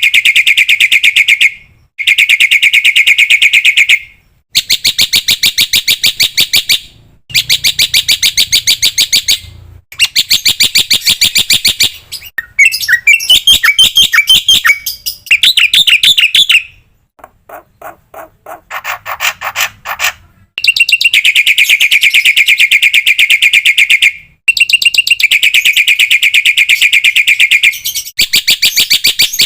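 Black-winged myna (jalak putih) song from a bird-training track, with mimicked fill-in calls: loud runs of very fast, evenly repeated chattering notes, each lasting two to three seconds with short breaks. About halfway through, a more varied warbling trill is followed by a lower, slower pulsing run before the fast runs resume.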